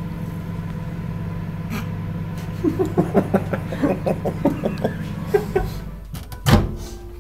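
Microwave oven running with a steady low hum that stops about six seconds in, followed by a loud clunk. Short breathy vocal sounds come in the middle.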